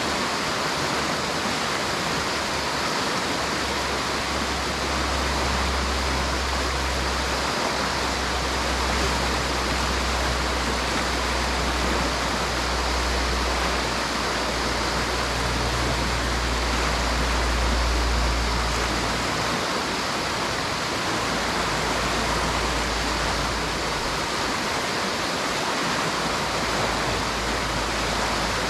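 River water rushing steadily, a constant even wash. A low rumble joins in for about the first half.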